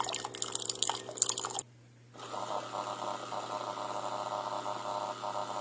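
Single-serve K-Cup pod coffee maker brewing: a steady pump hum with crackling and sputtering as water is forced through the coffee grounds. It cuts out briefly about a second and a half in, then resumes.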